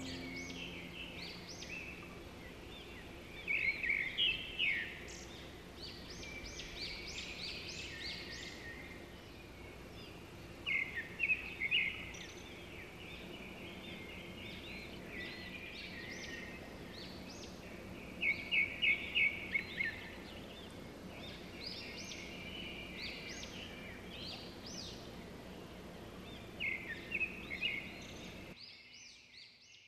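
Songbirds chirping and trilling in quick bursts of a second or two, several times over, above a faint steady hum.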